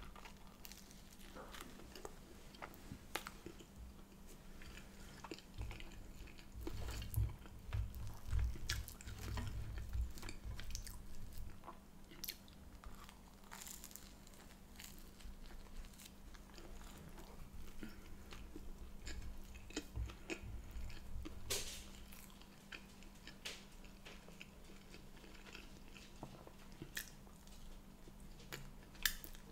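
A person biting and chewing food close to the microphone, a crusty bread bun dipped in egg yolk, with small wet mouth clicks. The chewing is heavier for a stretch starting about six seconds in and again around twenty seconds, over a faint steady hum.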